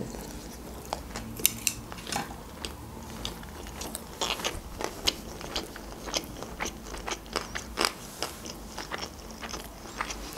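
Close-miked chewing of a mouthful of sushi roll: irregular small clicks and crackles of the mouth and teeth, thicker in stretches.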